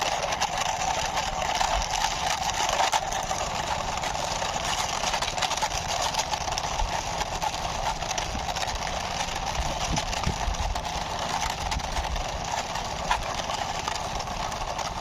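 Small plastic toy truck pushed along by hand, its wheels rolling with scattered light clicks and ticks, over a steady background hiss.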